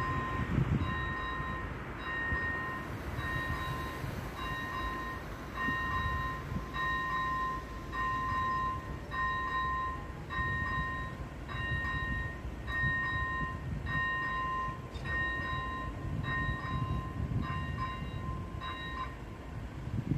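Electronic warning bell of an AŽD 97 railway level crossing ringing in a steady, regular rhythm of short chiming strokes, a sign that the crossing is active. Near the end the strokes overlap with a second ringer, then stop about a second before the end. A low rumble runs underneath.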